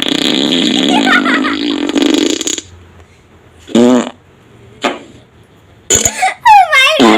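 Novelty fart sound effects played back from a speaker. A long pitched fart lasts about two and a half seconds, followed by two short ones and then a quick cluster of short sounds ending in a sliding, swooping squeal.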